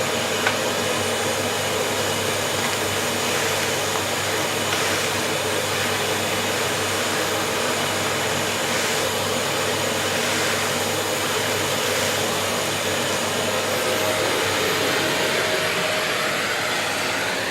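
Kärcher WD 3500P wet-and-dry vacuum cleaner running steadily, its motor humming under the even rush of air through the hose.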